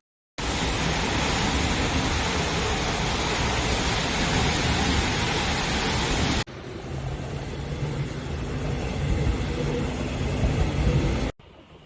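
Heavy rain: a loud, even rushing hiss. After about six seconds it cuts suddenly to a lower, rumbling rush with a faint engine hum under it, which stops abruptly near the end.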